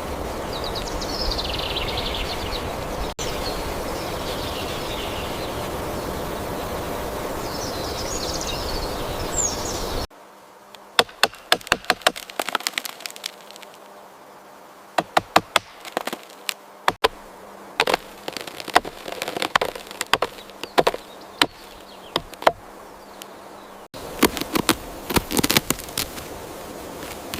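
A steady rushing outdoor noise with a few faint high bird chirps, then, after an abrupt cut about ten seconds in, a quieter background full of irregular sharp crackles and clicks.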